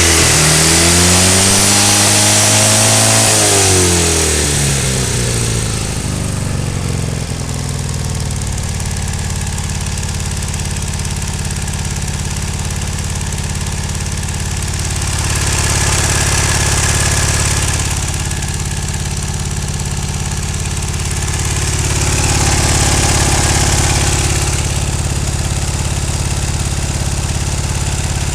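Ural motorcycle's two-cylinder boxer engine revved up and down a couple of times, then settling to a steady idle about six seconds in, swelling slightly twice.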